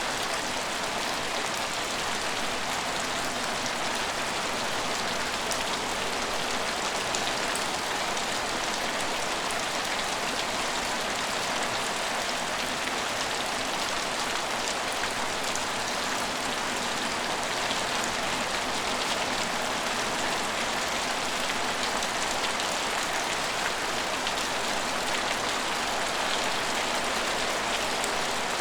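Steady rain falling: an even hiss that does not let up, dotted with the small ticks of single drops.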